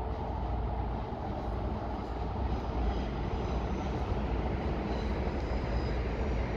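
Train running into the station: a steady low rumble, with faint high squeals coming in from about two and a half seconds in.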